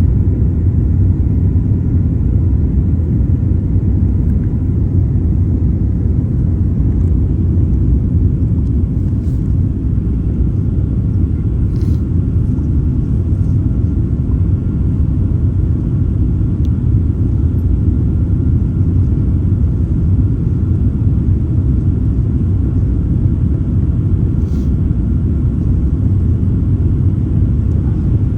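Steady low rumble of a Boeing 787-9 airliner during its takeoff, with a faint steady whine above it and a few light clicks.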